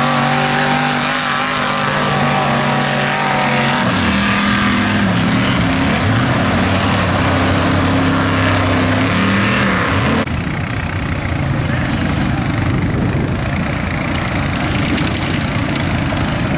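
Square-body Chevy mega truck's engine running hard at high revs, its pitch dropping about four seconds in and then climbing again. About ten seconds in the engine note cuts off abruptly, giving way to a rougher, noisier low running sound.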